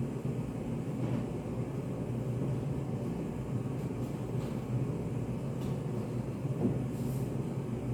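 Steady low room hum of a study café, with a few faint light clicks scattered through it.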